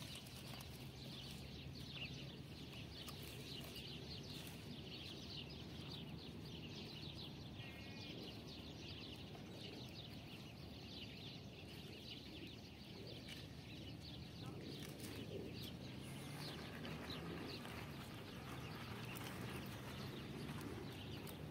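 Small birds chirping rapidly and continuously, thinning out about three-quarters of the way through, over a faint low hum.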